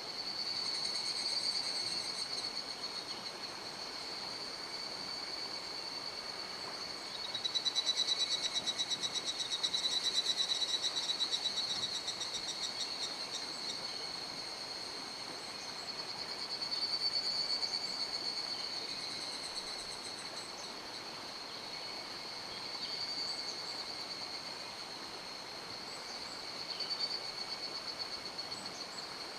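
Mountain stream flowing, under a steady high-pitched trilling chorus of small animals, with a louder pulsing trill from about 7 to 13 seconds and shorter swells later.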